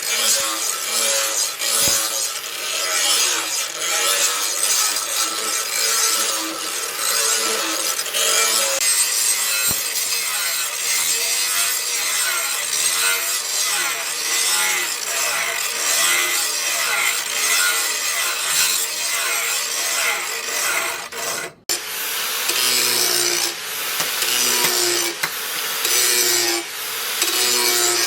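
A hand tool scraping back and forth on steel in steady strokes about once a second, from the work of shaping a machete blade cut from a disc-plough disc. There is a brief break about two-thirds of the way through.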